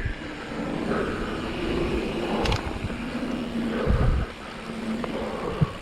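Vitus Sommet full-suspension mountain bike rolling down a dirt trail: a steady rush of tyre and wind noise with knocks and thumps from the bike over bumps, a sharp knock about halfway through and heavier thumps near the end.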